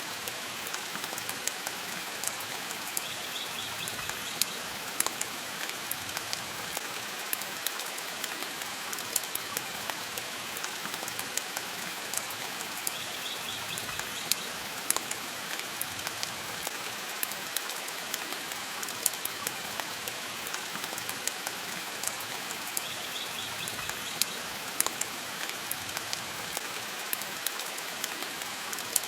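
Steady rain with a crackling wood fire: an even hiss of rainfall, broken by frequent sharp pops and snaps.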